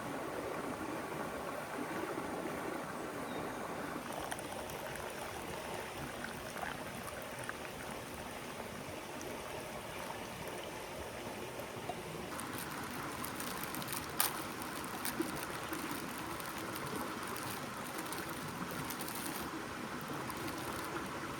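River water running steadily, a constant rushing flow, with two short sharp clicks a little past the middle.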